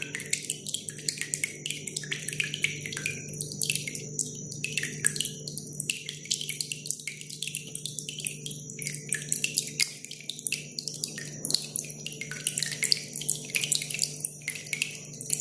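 Cililin bird calling in a rapid run of short, sharp high notes over steadily dripping water, with a faint low hum beneath.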